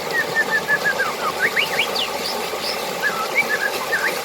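Running water, with a bird calling over it in a quick series of short whistled chirps, several of them sweeping sharply upward.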